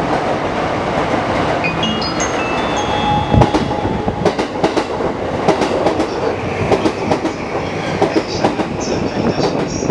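Yamanote Line E235 electric commuter train running past along the platform: a steady rumble with wheels clacking over rail joints. There is a heavy knock about three seconds in and rapid clacks after it, with a few brief high squeals.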